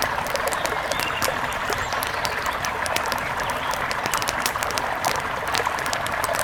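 Steady rushing of a river with frequent short, sharp crackles of a wood fire scattered throughout.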